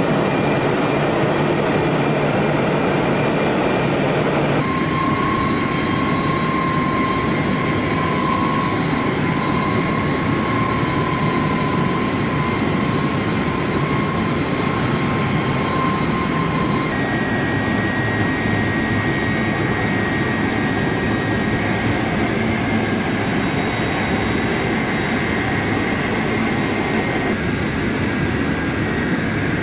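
Jet airliner engines running with a steady noise and, from about 5 to 17 seconds in, a high steady whine. The sound changes abruptly three times, at the cuts between shots.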